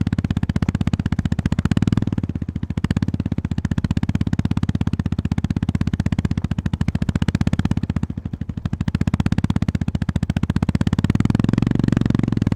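Honda GB350S air-cooled single-cylinder engine running at low revs under load, its individual firing pulses closely spaced. The engine note eases off briefly twice, about two seconds in and again around eight seconds, as the throttle is rolled back.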